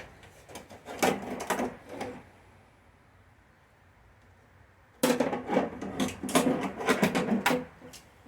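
Metal door-latch parts and a linkage rod clicking and clattering as they are handled and fitted together, in two spells of a second or two with a quiet pause between.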